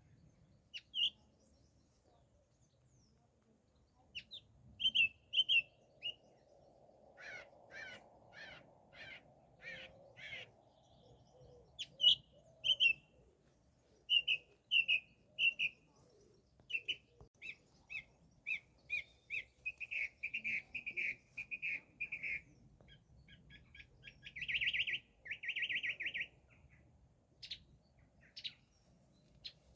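Songbirds singing and calling: short high chirps repeated in quick runs, with a louder stretch of rapid notes near the end.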